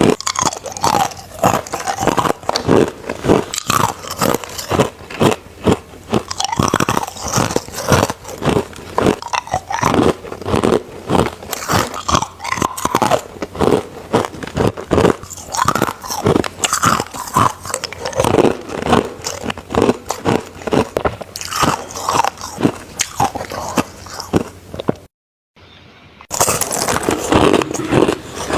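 Crushed ice being bitten and crunched between the teeth, close to the microphone: a rapid, irregular run of loud, crackly crunches. A gap of silence about a second long near the end breaks the run.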